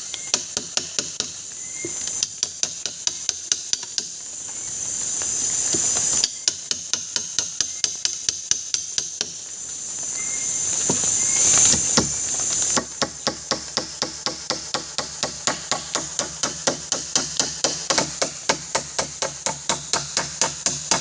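Rapid, evenly spaced hammer blows, about four a second, come in three runs with short pauses between, as a shelter frame is pounded together. A steady, high insect drone swells during the pauses.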